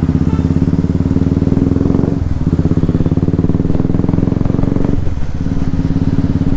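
Keeway Benda V302C's two-cylinder engine running under way, with a steady exhaust note that briefly drops away twice, about two seconds in and again around five seconds.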